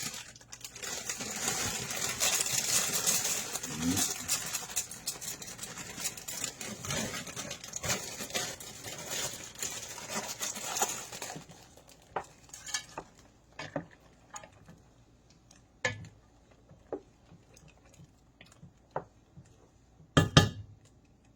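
Dry egg white noodles being tipped into a pot of boiling broth: a dense rustle and clatter for about eleven seconds, then scattered clinks of a utensil against the pot, with a loud knock near the end.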